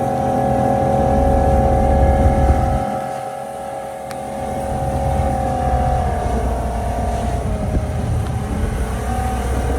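Freshly built drag-boat engine running at a steady speed on the water during break-in, its pitch easing down slightly about six seconds in. Wind rumbles on the microphone.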